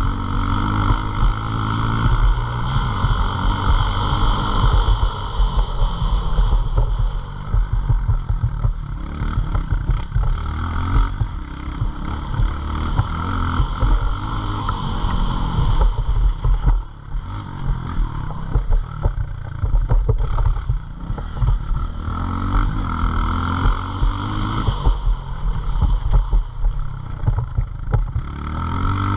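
Small pit bike engine running hard and revving, its pitch climbing again and again as it accelerates, with brief drops when the throttle comes off.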